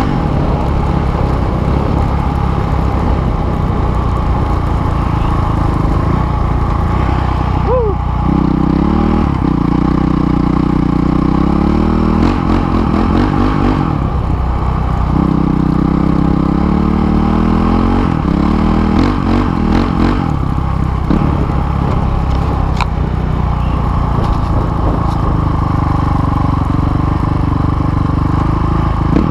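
Motorcycle engine running while riding, with two spells where the engine note climbs as it accelerates, about a third of the way in and again near the middle.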